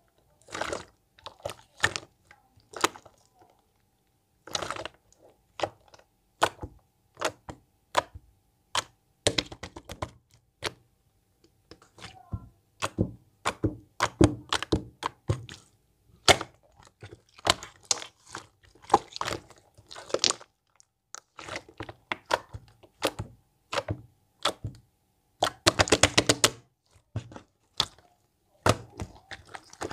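Elmer's glue slime being squished and poked by hand: irregular sharp clicks and popping crackles as air pockets in the slime burst, with a denser run of crackling near the end.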